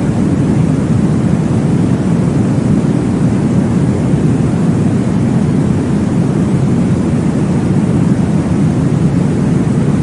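Deep, even whooshing noise with no breaks or rhythm: a white-noise track of the womb-sound kind, played to soothe a baby to sleep.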